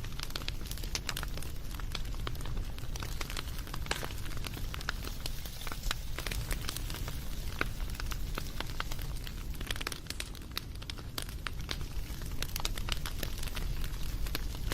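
Wood campfire crackling, with frequent sharp pops over a low steady rumble.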